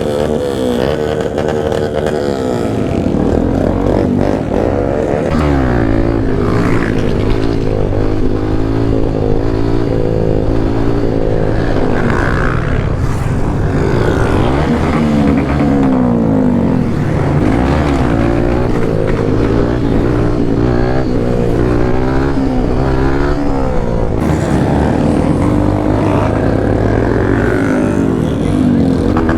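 Motorcycle engine revving and easing off again and again, its pitch rising and falling with the throttle.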